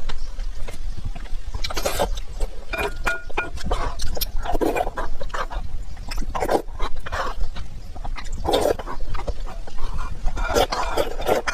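Close-miked eating sounds: wet chewing and mouth smacking in irregular bursts, with short clicks between them.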